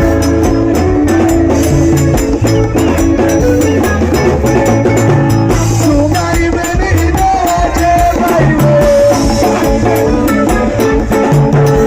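Loud live band music: a steady bass line and drums with a fast, even shaker or hi-hat pattern, and a melody line that glides in pitch about halfway through, with some singing.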